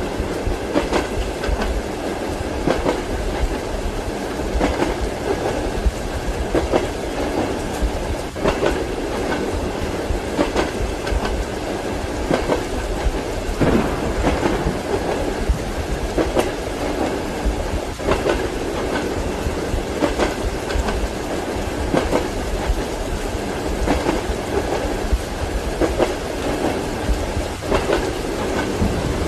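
Passenger train running: its wheels clack over rail joints about every two seconds over a steady rolling rumble, as heard inside a compartment, with rain hissing under it.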